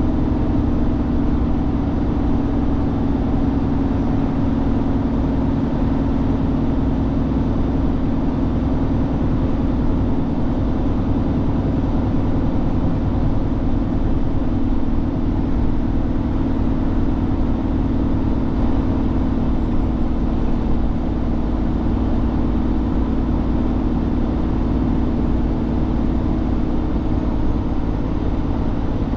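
Truck engine running with a steady, unchanging drone.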